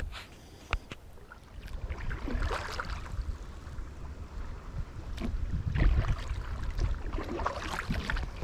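Small paddled boat moving off in shallow water: two sharp knocks on the hull in the first second, then water sloshing and paddle splashes that grow louder from about two seconds in, over a low rumble.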